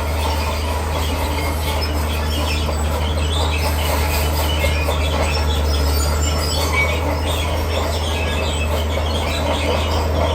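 D41P crawler bulldozer's diesel engine running steadily under load, with the metallic clatter and squeal of its steel tracks.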